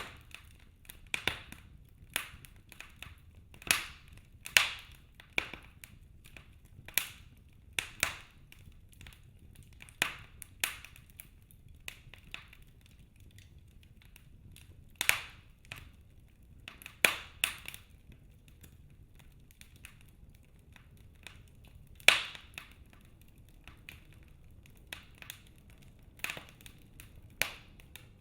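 Wood fire crackling in a fireplace: irregular sharp pops and snaps from the burning logs, some in quick clusters, over a faint low hiss.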